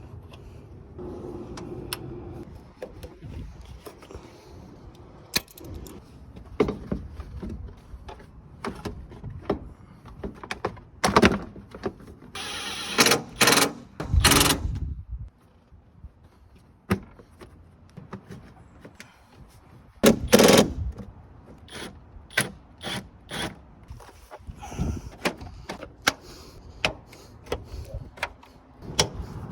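Hand tools and metal parts being handled during truck radiator work: scattered clicks, clanks and knocks, with a longer rushing noise about halfway through and another about two-thirds of the way through.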